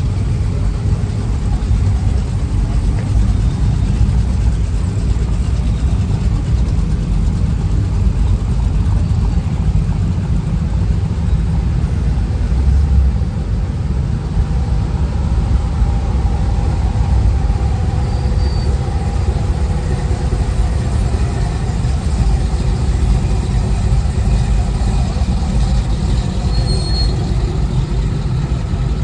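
Low, steady rumble of a vehicle engine running, with faint steady tones above it.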